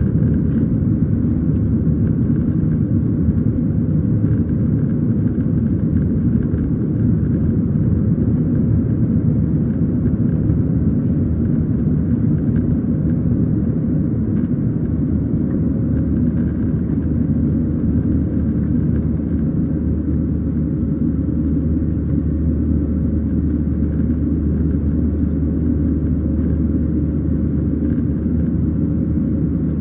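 Steady cabin roar of a Boeing 737-700 in the climb, its CFM56-7B turbofan engines and airflow heard from inside the cabin. A deeper drone comes in about two-thirds of the way through.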